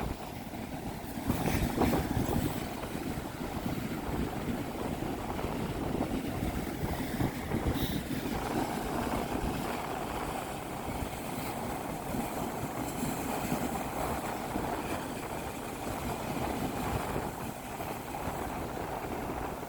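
Strong wind buffeting the microphone with a low rumble, over rough surf washing onto the beach. A louder gust comes about two seconds in.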